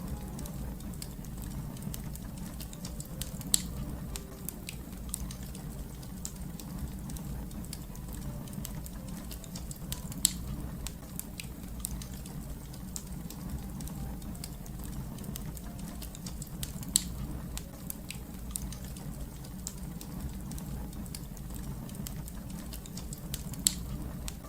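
Fire crackling: a steady low rumble under a constant scatter of small crackles, with a few louder sharp pops spread through.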